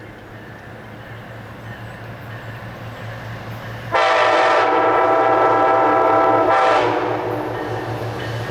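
Approaching Amtrak passenger train led by a Siemens ALC-42 Charger locomotive: a low hum grows steadily louder, then about four seconds in the locomotive sounds one long horn blast of about three seconds that fades off.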